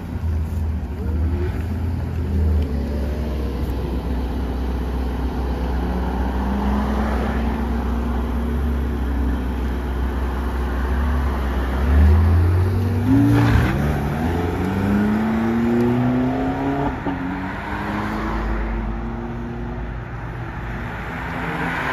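Car engine idling steadily, then about halfway through it accelerates, its pitch rising in several sweeps before it fades near the end.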